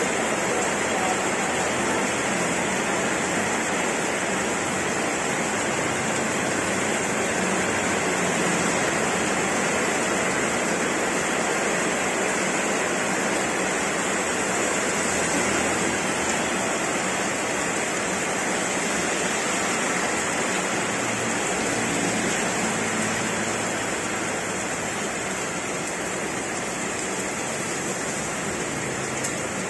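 Heavy downpour: steady, dense rain pouring onto a wet road, with a faint low engine hum from passing traffic in the middle part.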